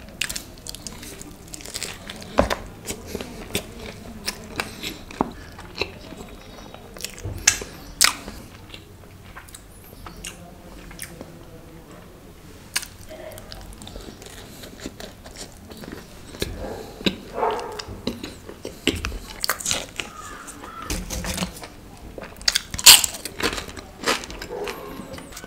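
Close-miked eating sounds: bites into sauce-dipped pizza and wet chewing, with sharp mouth clicks and smacks scattered irregularly; the loudest click comes near the end.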